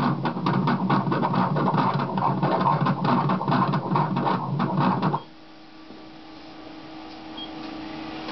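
The ultrasound machine's image printer running with a dense mechanical buzz, stopping abruptly about five seconds in and leaving a faint steady hum from the machine.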